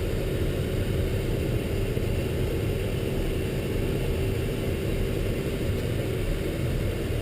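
Military truck on the move: steady engine and road noise, a low rumble with a faint steady hum that fades about six seconds in.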